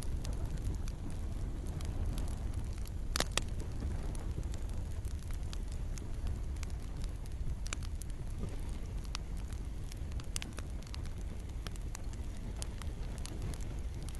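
Campfire crackling: scattered sharp pops and snaps of burning wood over a steady low rumble, with one louder pop about three seconds in.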